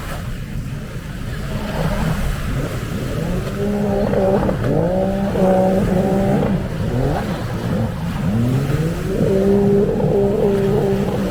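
Jet ski engines running at high revs. Twice the pitch rises and then holds with a wavering whine, over a steady low rumble.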